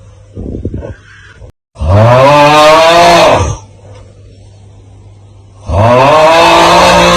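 The looped 'Aauuggh' meme sound: a short, quieter snore, then a man's loud, drawn-out 'aauugh' groan that rises and then falls in pitch. It starts again near the end, all over a low steady hum.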